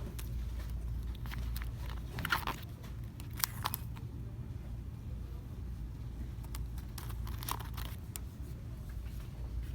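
Steady low hum of shop background noise with scattered crinkles and clicks of handled items, the clearest about two and a half, three and a half and seven and a half seconds in.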